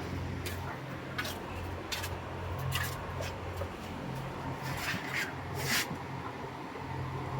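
Broiler chickens in a poultry shed giving short, sharp calls every second or so over a steady low hum of the shed's fans.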